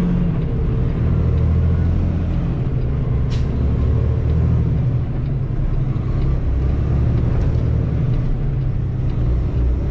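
Semi truck's diesel engine running steadily under way, heard from inside the cab, with a short hiss about three seconds in.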